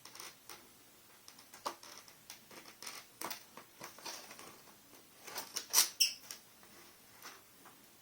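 Scattered light clicks, taps and scratches of hand work on a TV's LED backlight strip, as tester probes are set against the strip's contacts; a cluster of sharper clicks comes a little before six seconds in.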